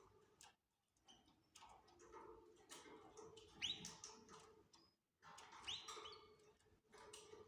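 Canaries chirping faintly, with two sharp rising calls a couple of seconds apart and scattered short clicks between them.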